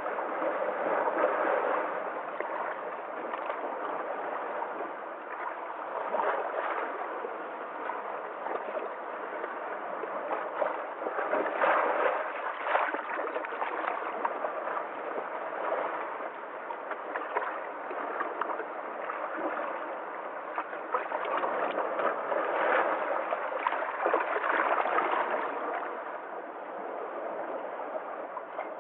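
Sea waves washing in and breaking, the rush of water swelling and easing every few seconds.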